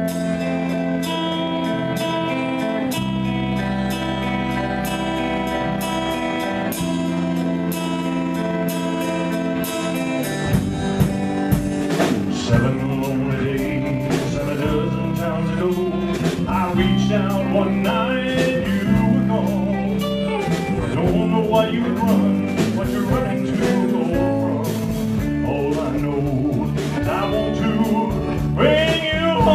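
Live band playing an instrumental introduction: held chords over a steady pulse, then drums and the full band come in about ten seconds in.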